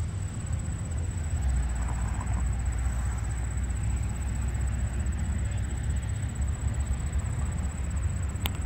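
Steady low rumble of a Great Lakes Central Railroad diesel train approaching the crossing, with a few sharp clicks near the end.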